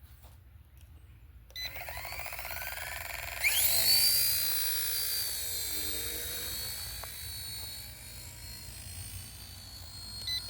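Electric RC helicopter motor and rotor spooling up: a high whine comes in suddenly, rises sharply in pitch, then holds a steady high-pitched drone.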